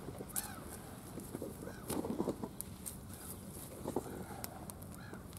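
A bird giving short, arched calls three times, over scattered sharp clicks and a cluster of knocks about two seconds in.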